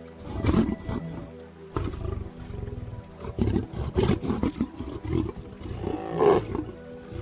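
A lion growling and roaring in a string of short, rough bursts, the loudest near the end, over soft sustained background music.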